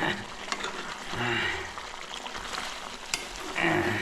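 Chicken liver curry with tomato sizzling in a pan, stirred with a spatula that clicks and scrapes against the pan now and then. A brief voice sound comes about a second in and again near the end.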